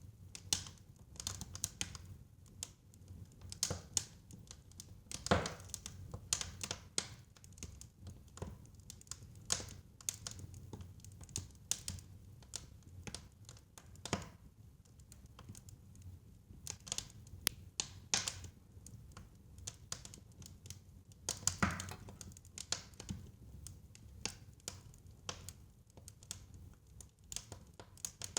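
Fireplace fire crackling: irregular snaps and pops over a low, steady rumble of flame, with two louder pops about five and twenty-one seconds in.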